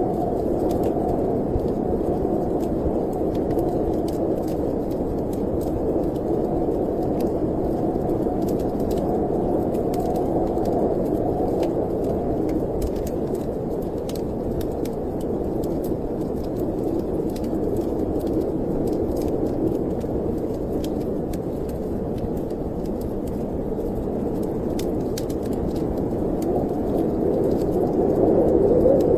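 Snowstorm wind blowing steadily, swelling near the end, with faint crackling from a wood fire in a fireplace throughout.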